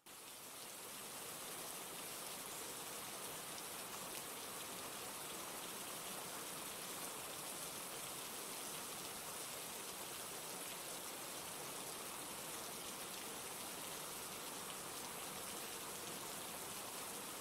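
Steady rain falling, an even hiss of drops on surfaces, fading in over the first second or two.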